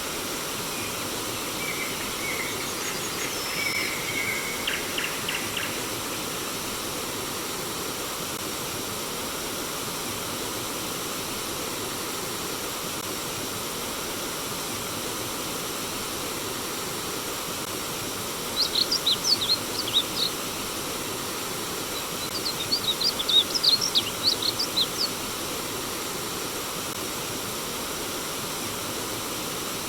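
Steady rush of flowing stream water with wild birds calling over it: a few short whistled calls in the first six seconds, then two bursts of rapid high chirps, about 19 and 23 seconds in.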